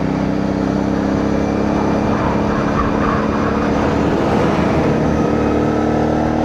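CFMoto 450NK's parallel-twin engine running under way at a steady speed, its pitch creeping up slightly, over wind and road noise. The rider is hearing a strange noise from the front wheel, which he thinks may be something loose, though the bike shows no other fault.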